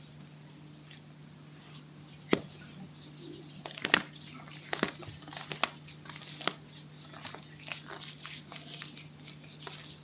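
Chalk being crunched: irregular sharp crunches and crackles, the loudest about two and four seconds in, over a faint steady hum.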